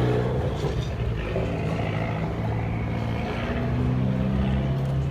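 A motor vehicle's engine running steadily at low revs, with street traffic noise around it.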